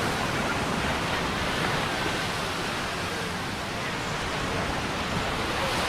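Atlantic surf washing onto the beach: a steady, even rush of breaking waves.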